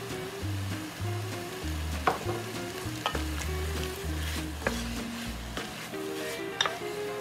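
Chicken pieces sizzling in an enamelled pot as a wooden spatula stirs them, with a few sharp knocks of the spatula against the pot. A background music bass line plays under it.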